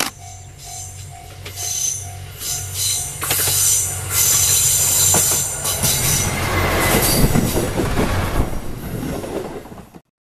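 A single-car diesel railcar approaches and passes close by. Its wheels give a high squeal on the curved track, and the engine and wheel rumble swell to their loudest as it goes past. The sound cuts off abruptly just before the end.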